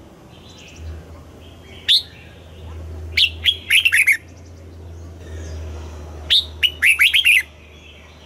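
Red-whiskered bulbul singing: three loud, short phrases of quick whistled notes that sweep down in pitch, about two seconds in, again at three to four seconds, and again near the end, with fainter chirps between them.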